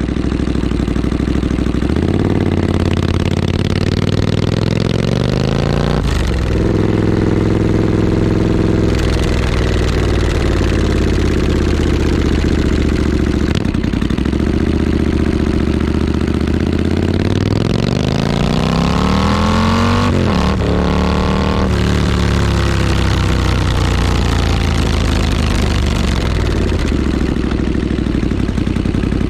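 A Triumph Street Scrambler's 900 cc parallel-twin engine running through a British Customs aftermarket exhaust, idling and then twice revved slowly up before dropping back to idle.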